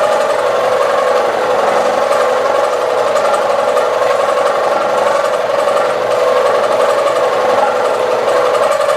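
Milling machine cutting steadily under power feed with a well-used two-flute ball end mill, flood coolant running. The sound is a loud, unbroken machining drone with a steady mid-pitched whine.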